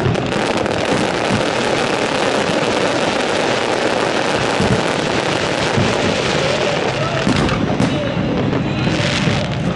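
Fireworks display: a dense, continuous crackle of bursting shells, with a few sharper bangs about seven to nine seconds in.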